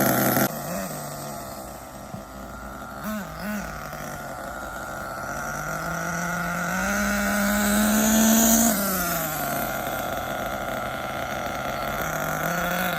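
Hong Nor Force .32 (5.2cc) nitro engine in an HPI Trophy Truggy during break-in, settling to idle, then giving two quick throttle blips about three seconds in. Around the middle it runs a sustained half-throttle burst, the pitch rising steadily for a couple of seconds, then drops back to idle as it brakes.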